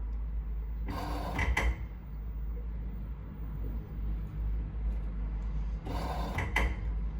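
LG front-load washing machine at the start of an empty 40-degree drum-cleaning cycle with descaler: a steady low hum with two short rushing sounds about five seconds apart, each under a second long.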